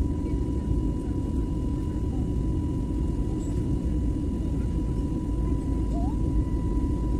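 Steady cabin rumble inside a passenger airliner in flight: jet engine and airflow noise, heavy in the low end, with a thin steady whine.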